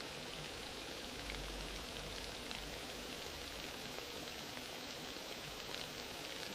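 Wood fire crackling in a fireplace: a steady hiss with small scattered snaps and pops.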